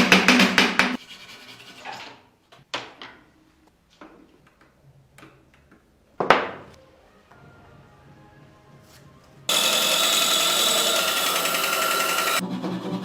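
Woodworking sounds: scattered sharp knocks and quieter rubbing, then a power tool running steadily for about three seconds. Rhythmic background music plays briefly at the start and again at the end.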